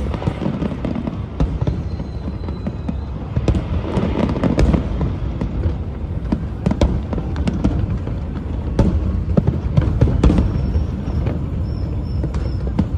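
Aerial fireworks going off: an irregular run of sharp bangs and crackles over a continuous low rumble.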